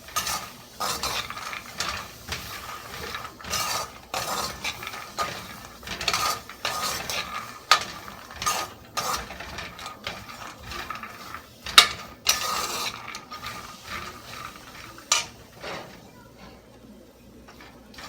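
Peanuts being stirred in a hot pan while roasting dry: irregular scraping of the utensil on the pan and rattling of the nuts, with a few sharp clicks. The stirring dies down near the end.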